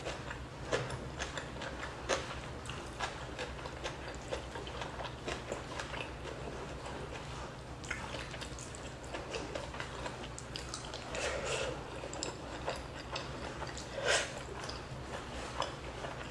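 Chewing of crispy fried fish skin: many short, sharp crunches and clicks at an uneven pace, the loudest about fourteen seconds in.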